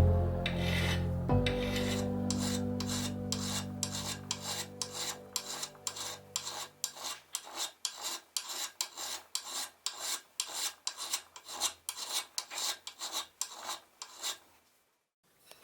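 Hand file rasping back and forth on the metal of a rusty clamp, in quick even strokes about three a second, stopping shortly before the end.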